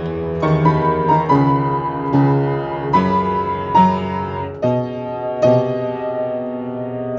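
Solo piano playing a slow, gentle passage: a new chord is struck under a sustained melody note every second or so, each ringing out and fading.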